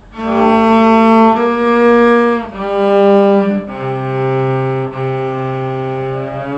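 Cello playing a short phrase of long bowed notes, about five in a row, stepping down to a low note about halfway through.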